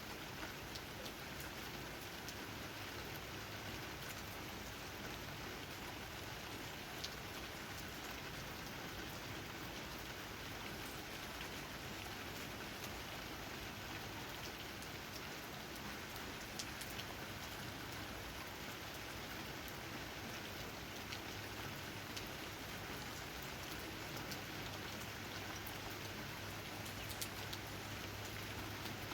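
Steady rain falling, with scattered individual drops tapping on leaves.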